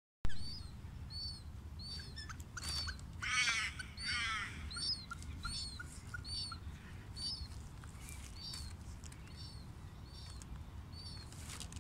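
Small bird repeating a short high chirp about three times every two seconds, with a second bird's rapid trilled call twice, around three and four seconds in. A steady low rumble runs underneath.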